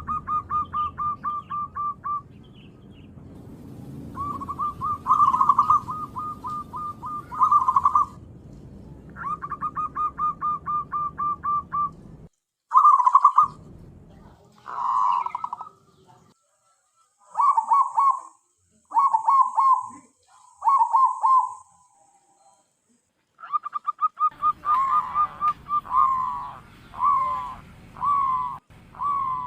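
Zebra dove (perkutut) calling: bursts of rapid, short cooing notes, repeated in phrases with short pauses between them.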